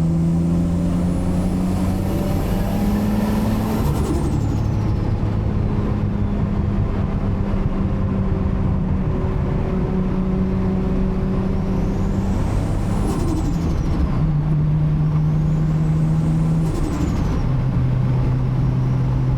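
Big-turbo Toyota Supra 2JZ-GTE inline-six heard from the cabin while driving, its engine note stepping with throttle and gear changes. Over it, the turbo's high whistle climbs as boost builds and falls away when the throttle closes, three times.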